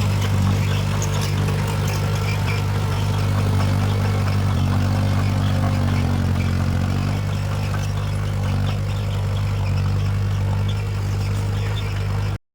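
Heavy diesel engine of an earthmoving machine running steadily with a deep, even drone.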